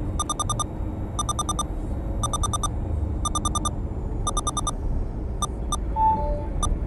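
A radar detector inside a moving vehicle's cabin beeps in quick groups of about five high pips, roughly once a second, thinning to single beeps near the end, with low road rumble underneath.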